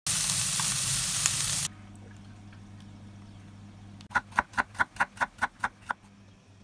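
Peppers and onion sizzling as they are stir-fried in a frying pan, cutting off abruptly after about a second and a half. A low steady hum follows, and a little after the middle comes a quick run of about nine evenly spaced short sounds, some five a second.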